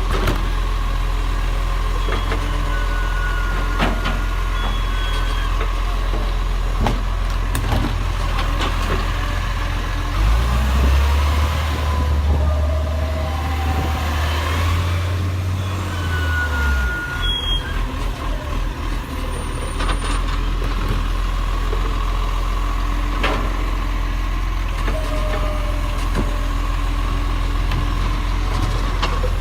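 Garbage truck's diesel engine running steadily with a deep hum, growing louder for several seconds around the middle before settling back.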